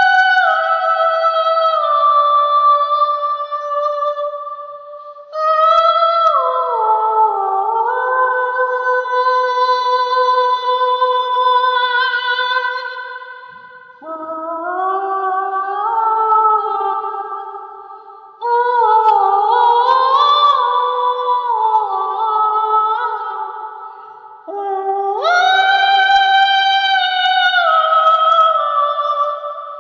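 Wordless layered vocals: two or three voices in harmony hold long notes and slide between pitches, in phrases of several seconds with short breaks between them.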